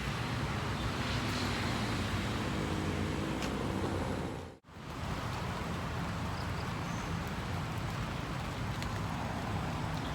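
Steady outdoor background noise with a heavy low rumble, broken by a moment of near silence a little under halfway through.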